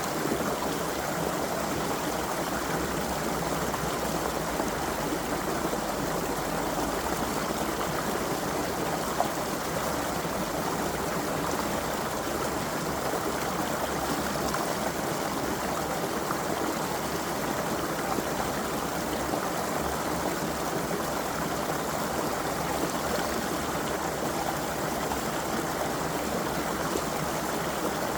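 Creek water flowing steadily over stones, an even rushing and burbling without pause.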